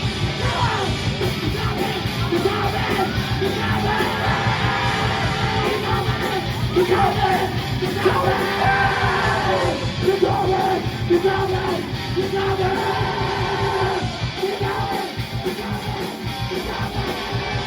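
Loud live heavy rock band playing, with distorted guitars, drums and a yelled, sung vocal.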